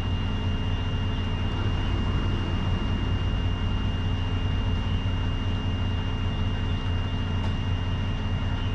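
Heavy truck's diesel engine running steadily, heard as a constant low drone with a thin, steady high-pitched tone alongside it.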